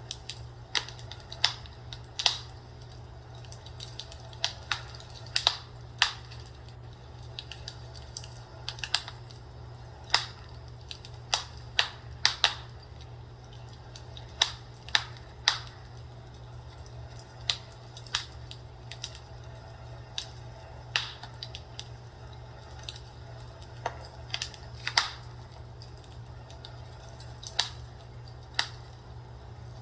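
Wood fire crackling in a fireplace: sharp pops and snaps at irregular intervals, sometimes several close together, over a steady low hum.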